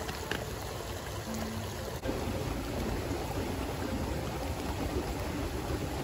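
Steady rush of flowing stream water, growing louder about two seconds in, with soft background music and its faint held notes.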